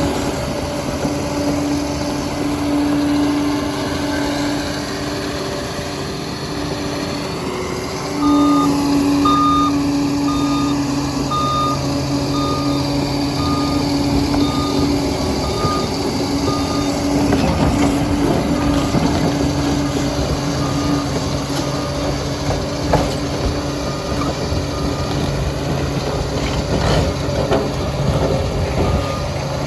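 Liebherr 746 crawler dozer's diesel engine running steadily, with its reversing alarm beeping about once a second from about eight seconds in as the machine backs up. Its beeping fades out a little past halfway, behind a rougher stretch of clatter, and then comes back fainter.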